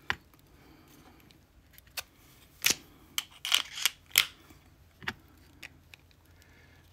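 Small metal lock parts and tools being handled on a workbench: a series of irregular sharp clicks and taps, bunched between about two and four and a half seconds in.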